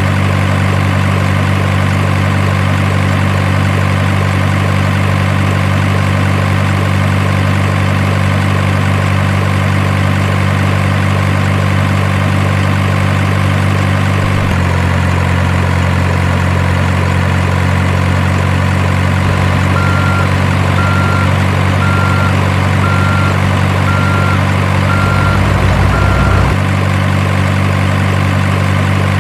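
Steady truck engine idling sound, a low even hum that shifts slightly in tone about halfway through. In the later part a faint short beep repeats about once a second for several seconds.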